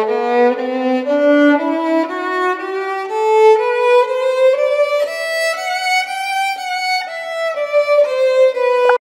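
Violin playing a melody of bowed notes that climb steadily in pitch for about seven seconds, then step back down and cut off abruptly near the end.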